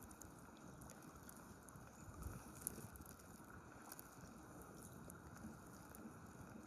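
Near silence: a faint, even hiss of rain and flowing river water, with a few light ticks.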